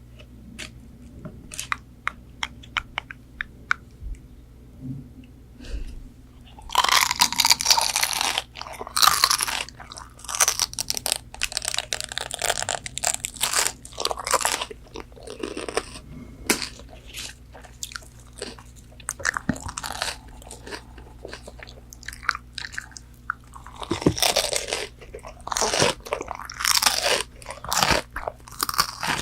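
Close-miked eating of crispy McDonald's chicken nuggets: a few seconds of scattered small clicks, then loud, dense crunching bites and chewing. The crunching eases off partway through and comes back loud near the end.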